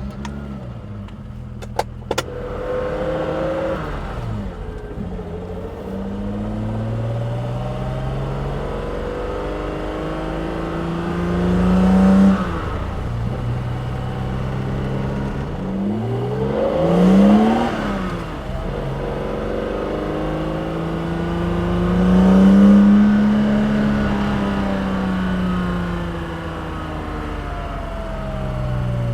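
S38B36 3.6-litre inline-six, breathing through individual throttle bodies into a custom exhaust, pulling hard in a BMW E9 coupe. The engine note climbs in pitch under acceleration and drops back at each gear change, and is loudest in three pulls about 12, 17 and 23 seconds in. Two sharp clicks sound about two seconds in.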